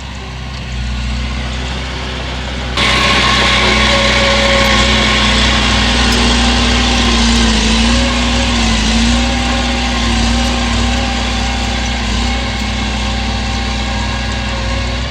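Heavy diesel engine of earthmoving machinery running steadily, then becoming abruptly louder and harsher about three seconds in as it works under load.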